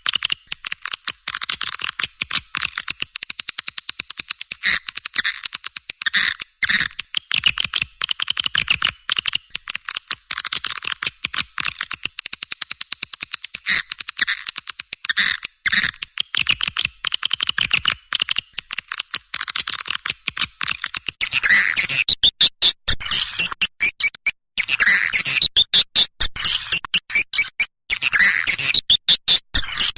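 Recorded calls of edible-nest swiftlets: a dense, continuous chatter of rapid high chirps and twitters, played as a lure call for swiftlet nest houses. About two-thirds of the way through, the chattering turns louder and fuller.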